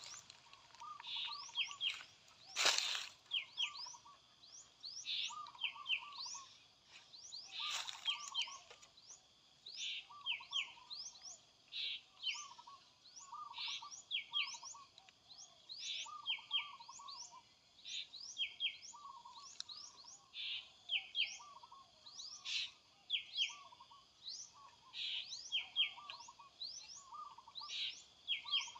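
A bird calling over and over: a short phrase of quick rising chirps and trilled notes about every two seconds. Two sharp knocks sound in the first eight seconds.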